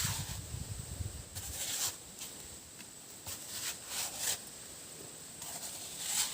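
Rustling of dry leaves and brush in several short bursts, like footsteps moving through undergrowth, with a few low thuds near the start. A steady thin high drone runs underneath.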